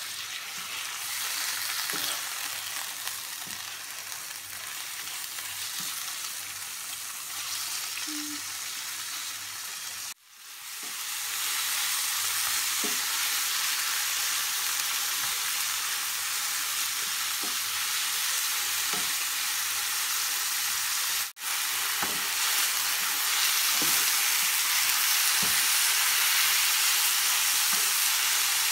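Sliced chicken breast with soy sauce sizzling in a hot frying pan, a steady hiss, with light scrapes and taps now and then as a wooden spoon stirs it. The sizzle cuts out briefly twice and is louder after the first break.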